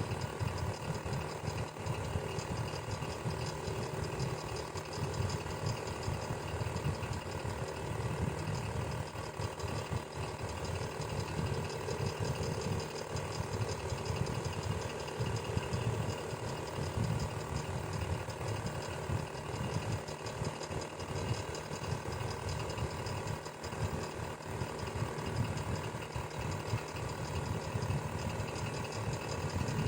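Electric fan running steadily: a low motor hum with a quick, uneven flutter and a faint even whir above it.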